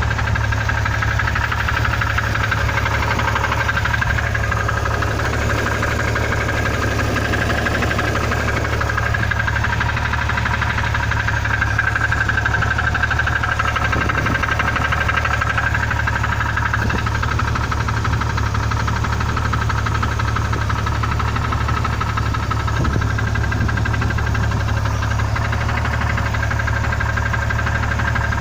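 Engine running steadily with a knock from its lower end, which the owner places somewhere around cylinder six.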